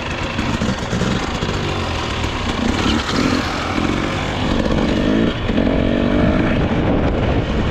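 Dirt bike engine running and revving, its pitch rising and falling repeatedly over wind and tyre noise.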